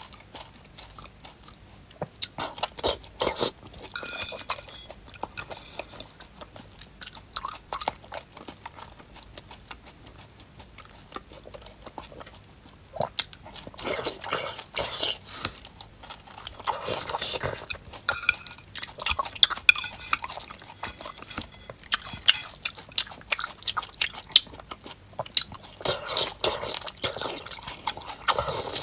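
Close-up eating sounds of a person biting and chewing chewy braised pork in sauce, with wet mouth clicks and smacks. The sounds come in spells, loudest a third of the way in and again near the end.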